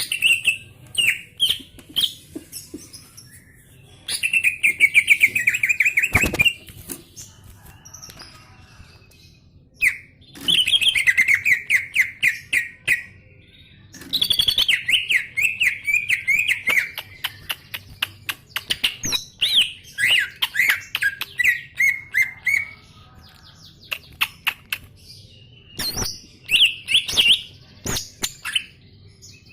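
Green leafbird (cucak ijo) singing vigorously: loud, fast warbling trilled phrases a few seconds long, several in a row, broken up by sharp short chirps and clicks.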